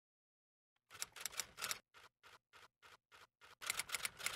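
A run of sharp, crisp clicks and crackles, some bunched in quick clusters and some single, about three a second, starting about a second in.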